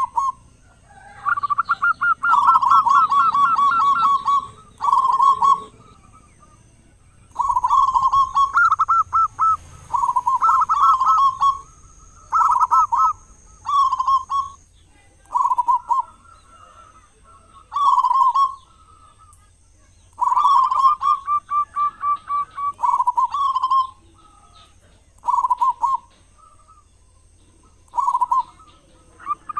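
Zebra dove (perkutut) singing: about a dozen bursts of quick staccato cooing notes, each lasting from under a second to about three seconds, separated by short pauses.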